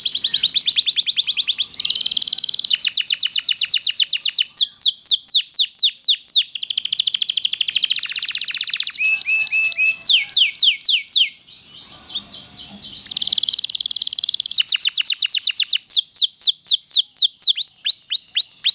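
Domestic canary singing a long, unbroken song of fast rolled trills: runs of rapidly repeated high notes, some sweeping down in pitch, with a brief lull about two-thirds of the way through.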